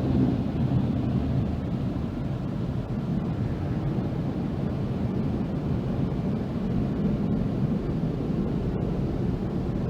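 Automatic car wash heard from inside the car: a steady low rumble with a hiss like spraying water and machinery, without pause.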